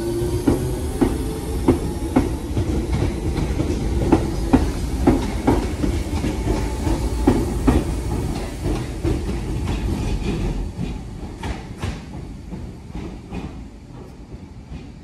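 Class 508 electric multiple unit pulling out, its wheels clacking over rail joints about twice a second over a rumble, fading as it draws away.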